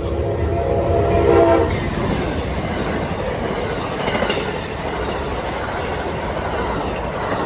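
Locomotive horn sounding a steady multi-note chord that ends about a second and a half in, then the steady rumble and rush of trains passing close by, wheels clattering over the rail joints.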